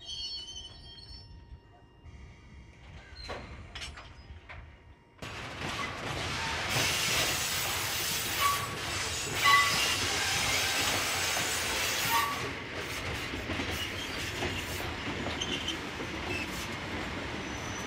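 Sangi Railway freight train of cement hopper wagons and ED45 electric locomotives rolling past, steady wheel-on-rail running noise with short high-pitched wheel squeals. The first few seconds hold only faint squeaks; about five seconds in the noise jumps up abruptly and stays loud.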